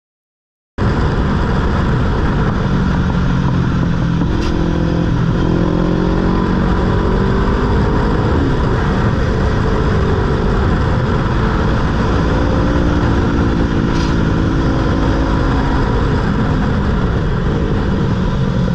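Motorcycle engine running under way, starting about a second in, its pitch rising and falling with throttle and gear changes over a heavy, steady rushing noise.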